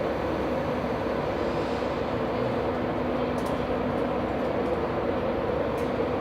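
Train at a station platform running with a steady hum, plus a few faint clicks.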